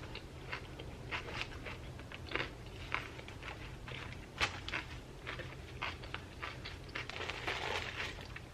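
Close-up chewing of a ham sandwich on wheat bread with lettuce, cucumber and onion: irregular crunches and mouth clicks. The loudest crunch comes about four and a half seconds in, and a denser run of chewing comes near the end.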